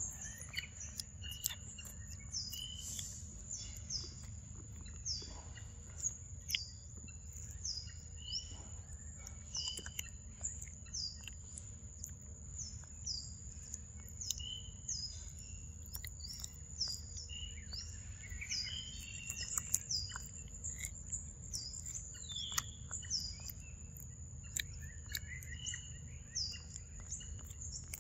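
A bird's short high chirp, falling in pitch, repeated about every second over a steady high drone, with other birds calling now and then. Close by, a monkey smacks and chews wet mango flesh, making soft sharp clicks.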